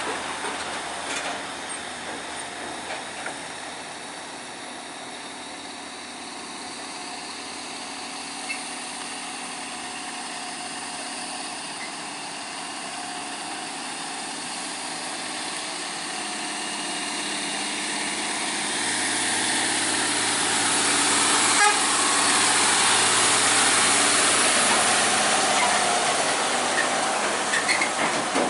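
Heavy truck diesel engines labouring up a steep climb, a steady running noise that grows louder about two-thirds of the way through, peaking as the trucks come closest, with a single sharp knock near the peak.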